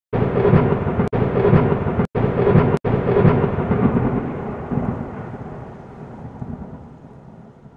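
A loud, thunder-like rumbling noise with a regular pulse about twice a second. It is cut off sharply three times within the first three seconds, then fades out.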